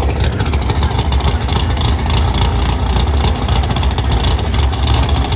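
Car engine running nearby with a loud, steady low rumble.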